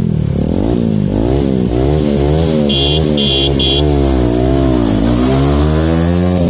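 TVS Apache 160 4V motorcycle's single-cylinder engine being revved repeatedly in quick throttle blips, its pitch rising and falling again and again.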